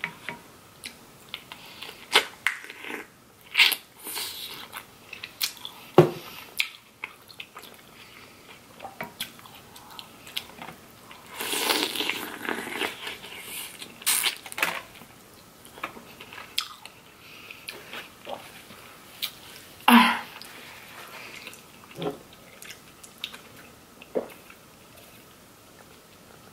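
Close-miked eating of crab legs and shrimp in butter sauce: wet chewing and lip smacks with occasional crunches, irregular throughout, with a noisier stretch of chewing about halfway and one sharp loud smack near the end.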